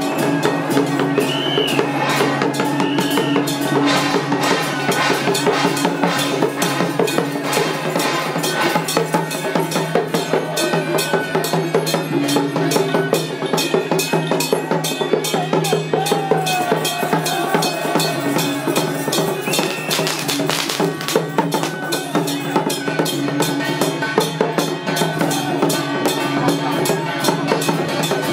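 Temple-festival procession percussion music: rapid, dense drum beating over steady held tones, continuous and loud.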